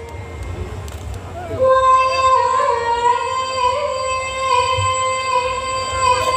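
Music with a high female singing voice: after a short break, one long held note begins about a second and a half in, with small wavering turns, over a low rumble underneath.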